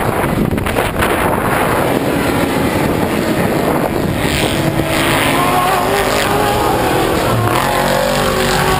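Off-road race truck engines running loud under racing throttle. From about five seconds in, the engine tones rise and fall in pitch as the trucks rev and shift.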